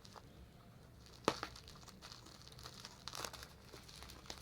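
Plastic parcel packaging crinkling and rustling as it is handled, with a sharp crackle about a second in and another cluster of crackles near the end.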